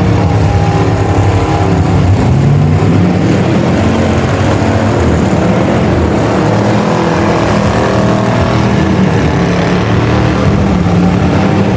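Two cars doing a side-by-side burnout, their engines held at high revs with the pitch wavering up and down.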